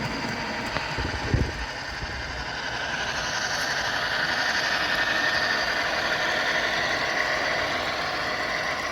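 A model train locomotive running with an engine sound, swelling louder through the middle and easing off near the end. A low thump comes about a second and a half in.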